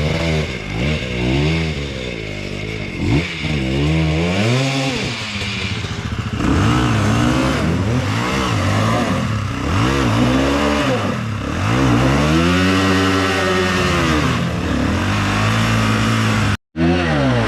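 Enduro dirt bike engine revved hard and let off again and again as it claws up rough ground, the pitch climbing and falling every second or two, with clatter from the bike. The sound cuts out briefly near the end.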